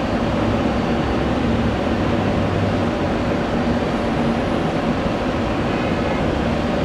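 Steady rumble of jet airliner engines, with a faint hum under a broad roar.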